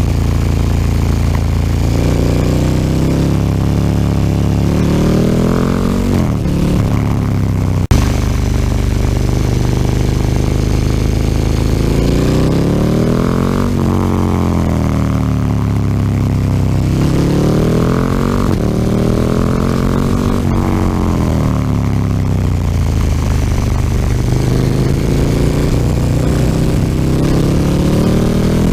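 KTM 1290 Super Duke R's V-twin through an Akrapovic slip-on exhaust under way, accelerating and backing off so that its pitch climbs and drops several times. A single sharp knock about eight seconds in.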